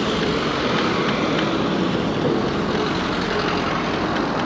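Steady riding noise of an electric scooter under way: tyre and road rumble with wind on the microphone, even throughout.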